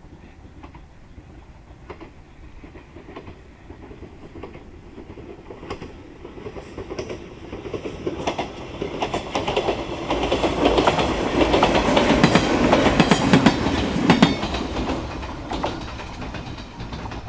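Echizen Railway 7000 series electric train approaching and passing, its wheels clicking over the rail joints. The running sound grows louder to a peak about ten to fourteen seconds in, then fades as the train goes by.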